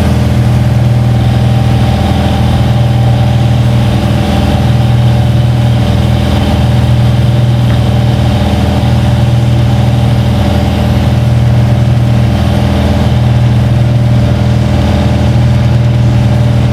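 Air compressor running steadily, supplying air to a venturi vacuum coolant filler while it draws 50/50 coolant into the engine's cooling system.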